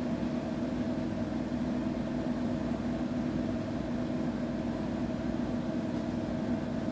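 Front-loading washing machine running with a steady mechanical hum over a low rumble, unchanging throughout.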